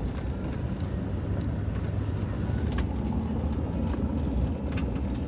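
Steady engine and road rumble heard from inside a moving vehicle, with a few faint clicks.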